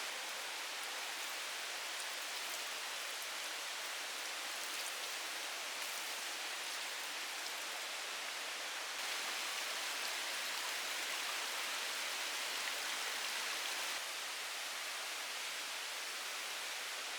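Steady rain falling on forest foliage: an even hiss with faint drop ticks. It gets a little louder about nine seconds in and drops back around fourteen seconds.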